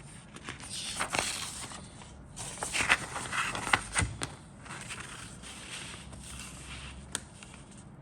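Crinkling and rustling of kit packaging being handled, with several sharp clicks. It is loudest about three seconds in.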